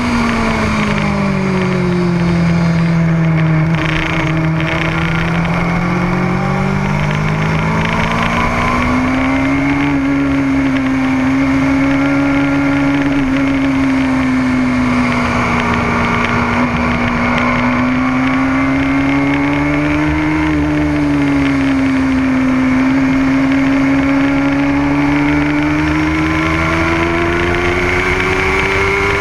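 Motorcycle engine under way on a race track: its pitch falls over the first few seconds as the bike slows, then rises and holds fairly steady, dipping briefly and climbing again near the end. A low rumble of wind runs underneath.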